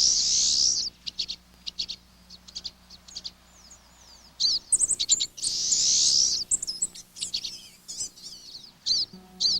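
Songbirds calling: short high chirps with two buzzy, rapid trills about a second long, one at the start and one about five seconds in.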